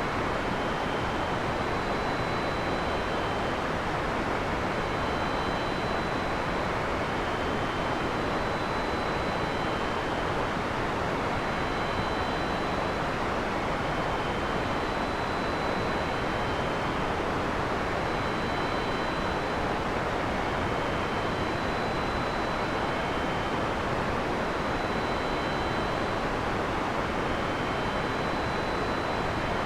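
Heavy rain falling in a steady, unbroken hiss, with faint high tones recurring every couple of seconds.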